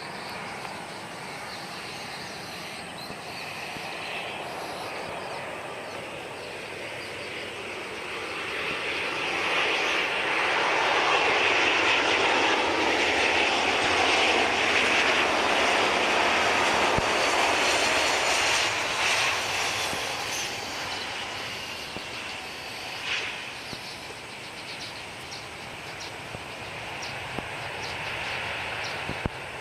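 Airbus A320-200 jet airliner coming in to land. Its engine roar builds over several seconds, is loudest for about ten seconds as it passes, then fades away.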